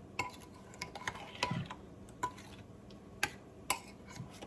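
A spoon tapping and clinking against a mixing bowl as fruit filling is stirred: about seven sharp, irregular clicks.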